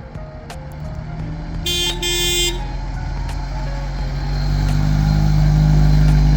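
A 1965 Alfa Romeo Giulia Spider's four-cylinder engine running, with two short horn toots about two seconds in, the second longer than the first. The engine grows louder toward the end, then drops off.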